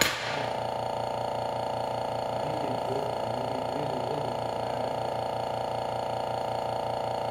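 Steady mechanical hum with a fast, even pulse, opening with a sharp knock; faint low voices come and go in the middle.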